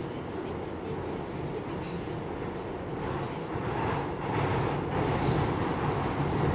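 Steady mechanical rumble of factory machinery ambience, getting louder about four seconds in.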